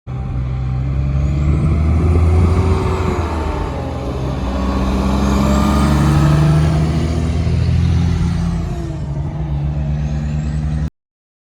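Heavy truck's diesel engine running as it passes, the engine note rising and falling. The sound starts and cuts off abruptly.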